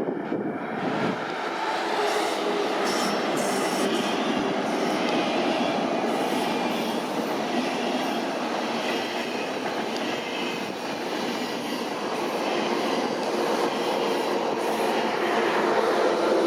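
A train running by on the rails: a steady noise of wheels and cars that swells slightly near the end.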